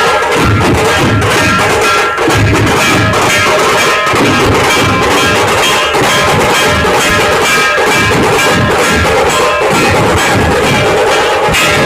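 Dhol-tasha ensemble playing a fast, steady rhythm: large dhol drums beating underneath dense, rapid, sharp tasha strokes.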